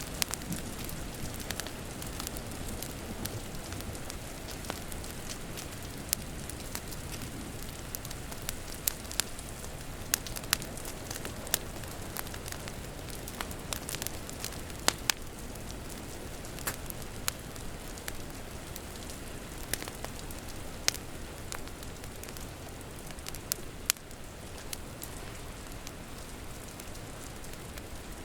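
Wood fire crackling, with irregular sharp pops and snaps, over a steady hiss of rain.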